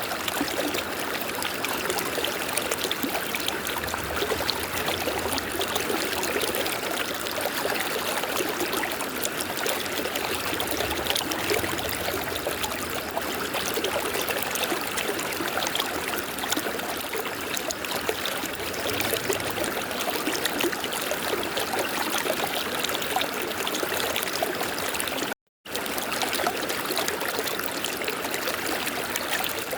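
River water flowing steadily in a continuous rush, with one split-second dropout to silence about three-quarters of the way through.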